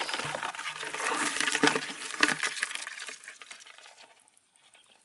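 Snail shells clicking and rattling together as they are handled, dying away about four seconds in.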